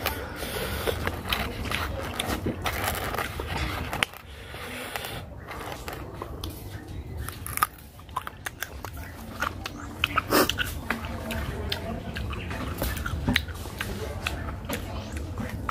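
A person biting and chewing crunchy fresh fruit: repeated sharp crunches at irregular intervals, the loudest about ten seconds in, over a low steady rumble.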